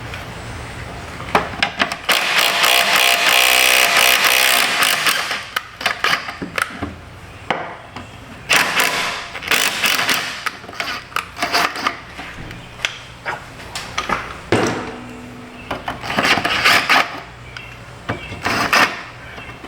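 Metal hand tools clinking, rattling and scraping, with many sharp clicks. There is a longer, loud stretch of rattling noise a couple of seconds in and shorter bursts later on.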